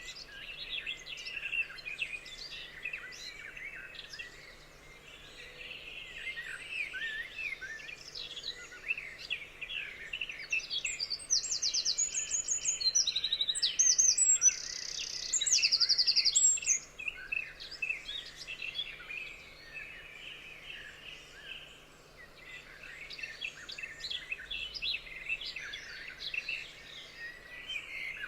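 Several forest birds singing and chirping together, a dense chorus of short calls and fast trills that is loudest about halfway through.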